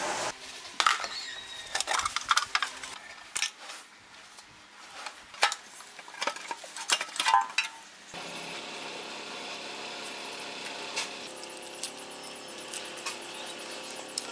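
Hand tools and metal parts clinking and knocking in irregular strikes, then from about eight seconds in a steady hum with fast light ticking over it.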